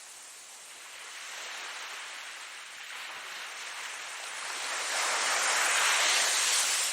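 Ocean waves breaking and washing in, a steady hiss that builds in two swells, the louder one from about five seconds in, then falls away near the end.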